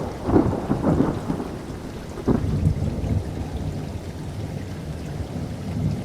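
Thunderstorm: thunder rumbling with a cluster of sharp cracks in the first second and another crack about two seconds in, over the steady hiss of falling rain.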